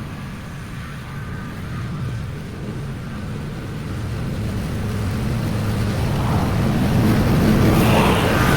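Petrol lawn mower engine running steadily, growing louder over the last few seconds.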